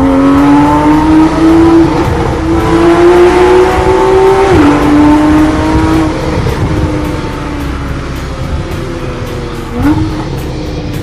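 Porsche 991 Carrera flat-six running through a Kline Innovation exhaust, pulling hard with the pitch rising, then dropping sharply at an upshift about four and a half seconds in. The pitch then eases down as the car slows, with a short rev about a second before the end.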